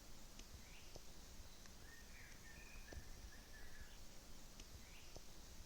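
Faint outdoor ambience in which a small bird sings a short phrase of chirps, about two seconds in and again near the end, over a low steady background with a few light clicks.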